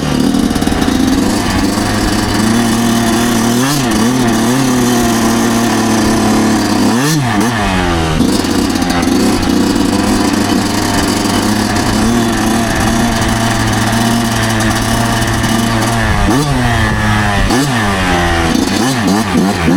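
2009 Yamaha YZ125's 125 cc single-cylinder two-stroke engine running under way at mostly steady revs, loud and close. Its pitch dips and picks back up a few times, around four seconds in, seven seconds in, and near the end.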